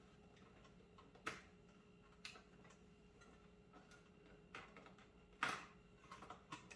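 Scattered faint clicks and knocks of hands working a PC's internal cables and plastic connectors, about half a dozen spread unevenly, the loudest a little past halfway, over a faint steady hum.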